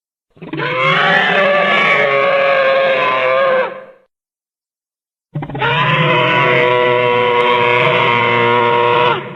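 Two long monster roars, each about three and a half seconds, with a gap of over a second between them, made by layering animal calls: smilodon, walrus, polar bear, gorilla, camel, cougar and moose.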